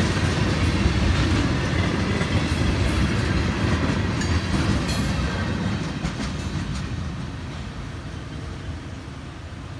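Freight train of tank cars rolling past on the rails, its steel wheels rumbling with a few sharp clicks about four to five seconds in. The last car goes by and the rumble fades steadily as the train moves away.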